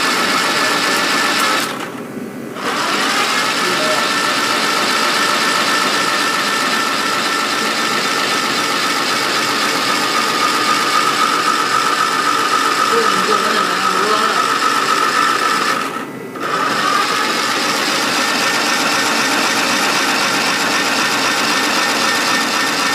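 Rebuilt Triumph GT6 straight-six engine being turned over, a fast steady mechanical clatter with a held whine, pausing briefly about two seconds in and again about sixteen seconds in.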